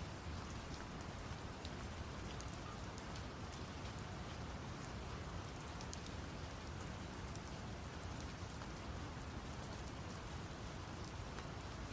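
Steady rain with many small drop ticks, over an even, deep brown-noise hiss.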